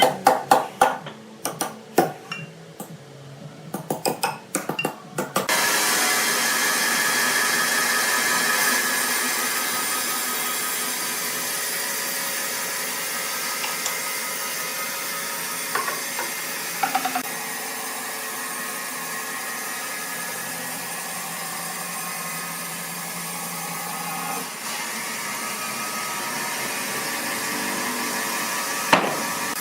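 Sawmill machinery: a run of sharp knocks and clatters for about five seconds, then a machine starts running steadily, a dense mechanical whir with a faint steady hum under it.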